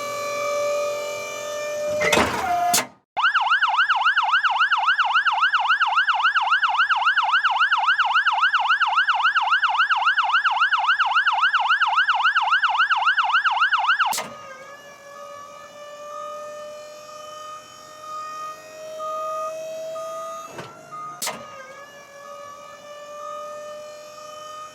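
Fire truck's electronic siren. It starts on a steady wail, sweeps and breaks off briefly, then switches to a fast warble of about four pitch cycles a second for some eleven seconds. It then drops back to a slow, rising wail.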